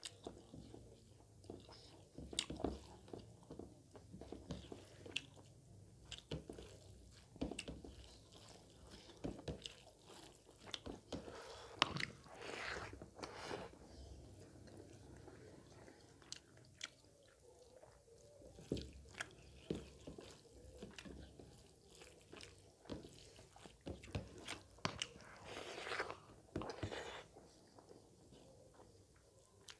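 Close-miked mouth sounds of a man chewing pork and rice in gravy: irregular wet smacks and clicks, with no words.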